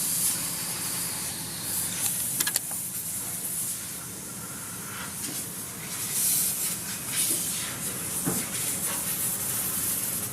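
Steady hiss that swells for a moment partway through, with a few short clicks.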